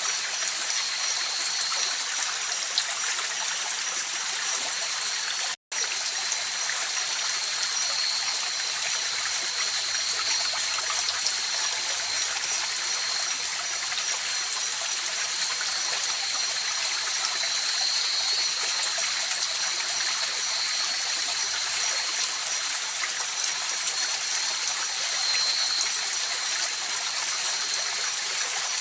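Mountain river flowing steadily, an even rushing of water, with steady high-pitched tones over it. The sound cuts out for an instant about five and a half seconds in.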